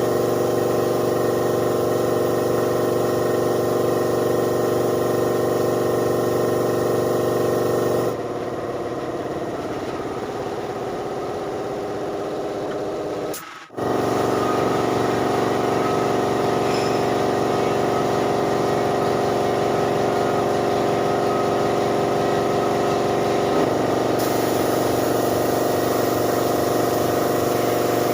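A machine motor running steadily with an even pitched hum. About eight seconds in it turns noisier and a little quieter, cuts out for a moment around halfway, then comes back at its steady pitch.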